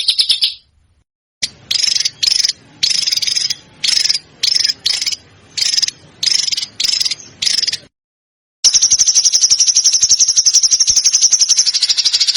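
Small songbird giving dry, high-pitched rapid-fire trills (a 'tembakan' call). One trill stops about half a second in. After a pause comes a string of about a dozen short trill bursts, then after another short gap one long unbroken trill.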